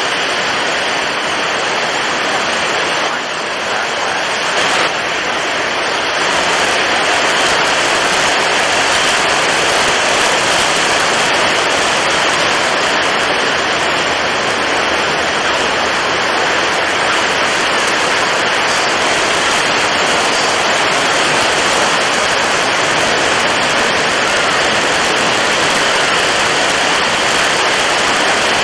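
Storm at sea: strong wind and heavy waves make a steady, loud rushing noise, which grows a little louder about six seconds in.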